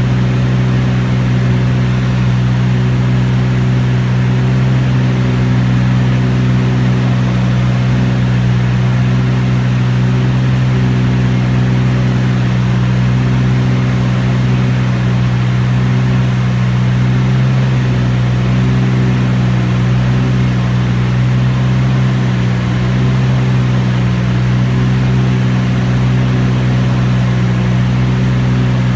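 Beechcraft T-34 Mentor's six-cylinder piston engine and propeller droning steadily in flight, heard from on board, with no change in pitch or level.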